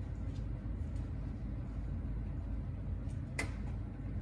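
Steady low road and engine rumble inside a car's cabin, with one sharp click about three seconds in.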